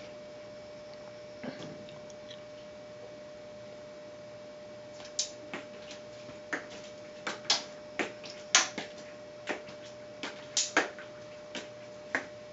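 Cats playing with a feather wand toy: scattered short clicks and taps, about a dozen of them in the second half, over a faint steady hum.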